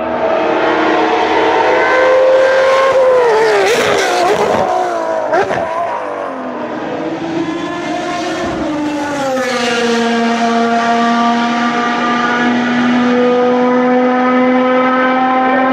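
Ferrari race car engines at high revs on track. The engine note climbs, then falls and wavers about four seconds in, then settles into a long steady note that rises slowly.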